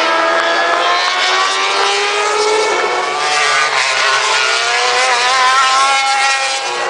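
Several racing motorcycle engines running at high revs at once, their pitches mostly rising as they accelerate.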